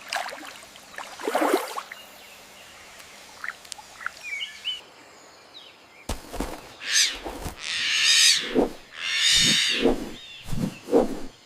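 Wildlife calls: a few faint short calls and chirps. About halfway in, the sound abruptly turns to a busier run of harsh, noisy calls mixed with short, lower croaking calls.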